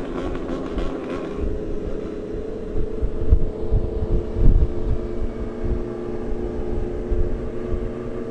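Motorcycle engine running steadily at cruising speed, with wind buffeting the microphone in gusts that are strongest about three to four and a half seconds in.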